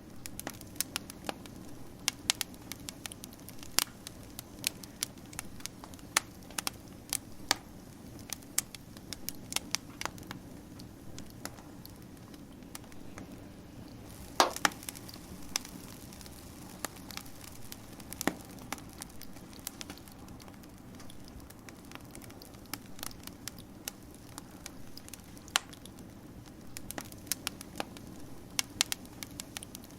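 Wood campfire crackling: irregular sharp pops and snaps over a low, steady rush of burning, with one louder pop about halfway through.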